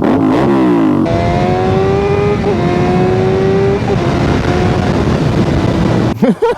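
Sportbike engine revved up and down, then held at a steady high pitch, dipping briefly about two and a half seconds in and again about four seconds in.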